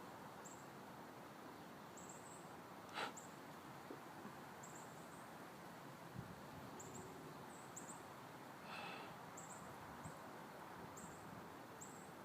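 Near silence: a faint steady hiss with a few brief high chirps every second or so and a single soft click about three seconds in.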